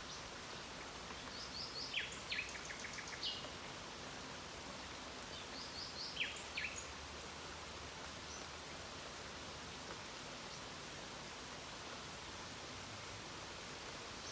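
Steady hiss of falling rain, with a songbird singing two short phrases of quick high chirps and falling notes, about two seconds in and again about six seconds in.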